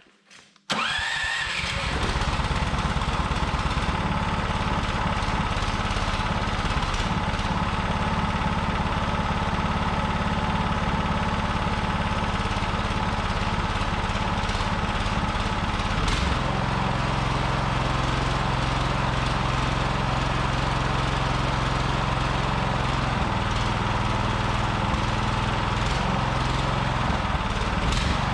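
A 420cc single-cylinder small gasoline engine is spun briefly by its electric starter and catches within the first second, then runs steadily. About 16 seconds in, its note changes and settles into a steadier beat.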